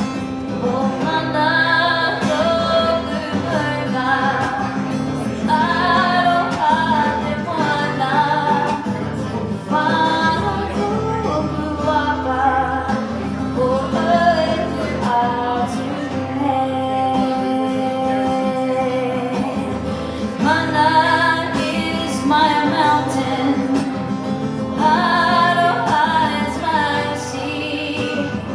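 Live song: a woman singing phrases in two languages over a steady guitar accompaniment, a song she introduced as a pepeha.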